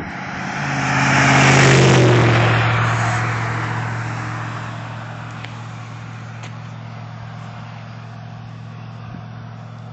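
A motor vehicle driving past, swelling to its loudest about two seconds in and fading away over the next few seconds, over a steady low engine hum.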